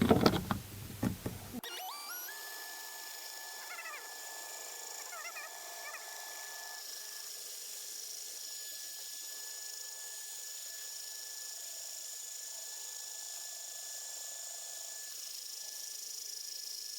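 A few handling knocks, then a drill turning a diamond-tipped arbour cutter that grinds into a milk glass bulb: a steady high whine with hiss, and squeals wavering in pitch a few seconds in.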